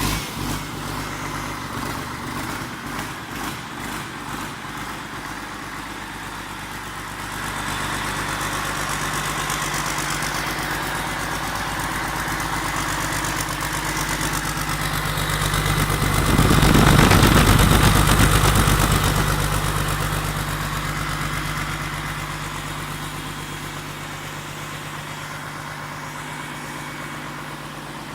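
Komatsu S6D125-1 six-cylinder diesel engine running just after start-up, with an uneven, pulsing beat in the first few seconds that steadies into an idle. About two-thirds of the way through it swells louder for a few seconds, then settles back to a steady idle.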